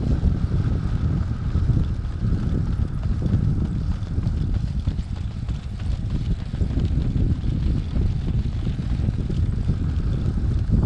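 Wind buffeting the microphone: a loud, steady, unpitched low rumble that flutters throughout.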